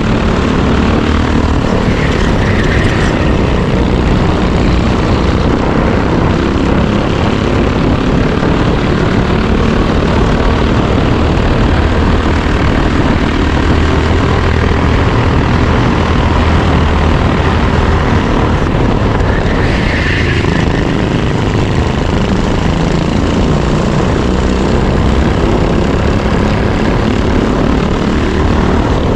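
Racing go-kart engine heard onboard, running hard and loud with its pitch rising and falling through the lap.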